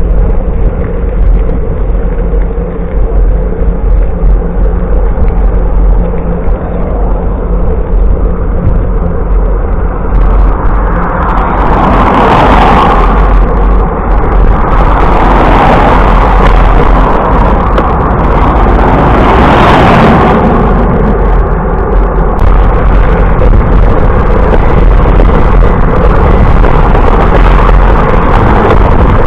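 Wind rumbling on the microphone of a camera riding along on a bicycle ride, loud and steady. From about ten seconds in, a brighter hiss joins it, with three louder swells.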